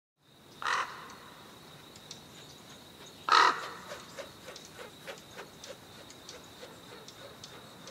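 A bird gives two loud, harsh calls, the first about half a second in and the second about three seconds later. Under them run a steady high-pitched whine and many small faint ticks.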